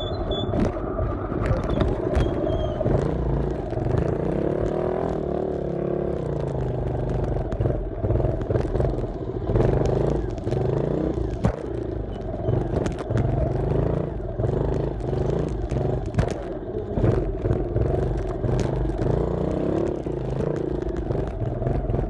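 Dirt bike engine running as it is ridden, its pitch rising and falling with the throttle, with frequent clicks and knocks over it.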